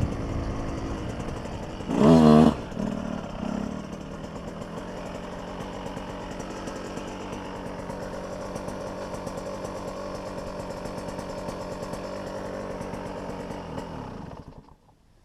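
Dirt bike engine revving hard briefly about two seconds in, then running at a steadier, lower level and fading out near the end.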